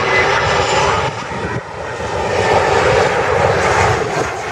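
Jet airliner's engines running loud and steady as the aircraft passes, swelling a little in the second half.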